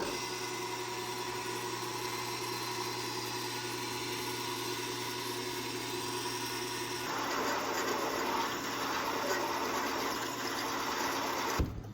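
Electric drill press motor running with a steady hum. About seven seconds in the sound turns rougher, and it stops abruptly just before the end.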